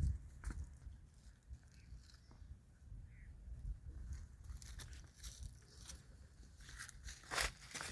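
Scattered crunching and rustling over a low rumble, with a louder cluster of crunches near the end.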